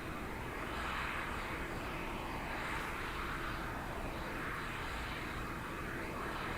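Jet aircraft engines running on the airfield: a steady rushing whine that swells and fades every couple of seconds.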